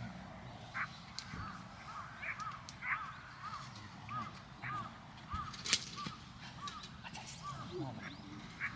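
A bird calling repeatedly in a steady series of short, evenly spaced notes, about two a second, with a couple of faint sharp clicks.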